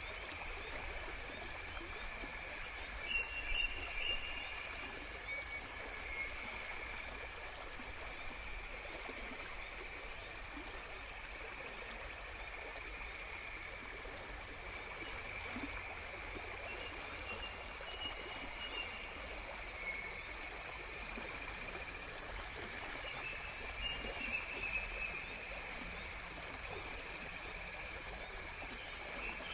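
Nature ambience of a stream running steadily, with a constant high insect-like drone and a few short high chirps. A rapid high-pitched pulsing trill sounds briefly near the start and again for about three seconds about three-quarters of the way through.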